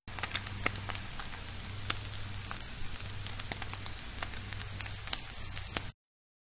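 Seasoned chicken pieces sizzling in a stainless steel skillet: a steady frying hiss with frequent sharp pops and crackles over a low hum. It starts suddenly and cuts off shortly before the end.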